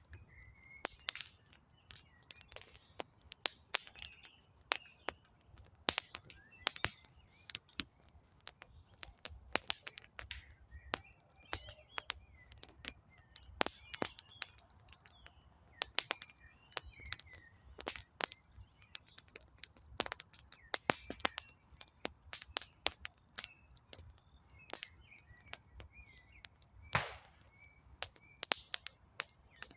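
Wood campfire crackling, with frequent irregular sharp pops and snaps, while small birds chirp now and then.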